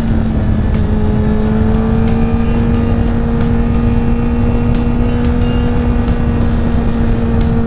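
Honda CBR1000RR's inline-four engine running at a steady, even pitch while cruising, under heavy low wind rumble on the microphone.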